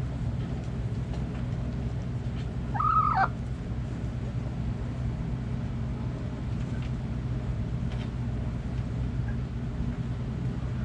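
A chicken gives a single short, arched call about three seconds in, lasting about half a second, with a few faint softer calls later. A steady low hum runs underneath.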